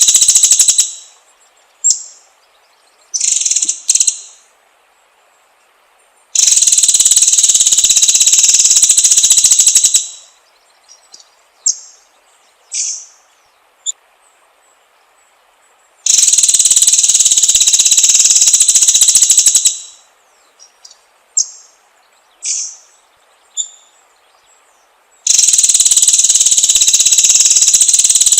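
Songbird training recording of white-rumped shama (murai batu) song. Loud, very fast buzzing trills about four seconds long come three times, with a fourth starting near the end. Between them are short, separate high whistled notes and quick sweeps.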